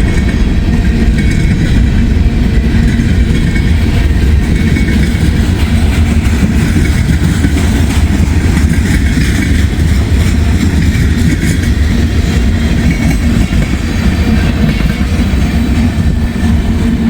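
Long freight train's cars rolling past, a steady loud rumble of steel wheels on the rails.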